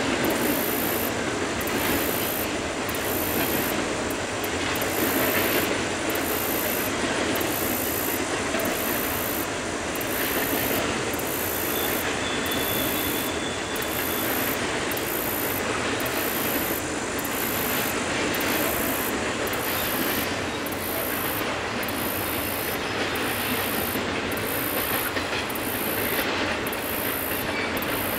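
Norfolk Southern intermodal freight train passing steadily: a continuous rumble and clatter of wheels on rail, with a high wheel squeal over it.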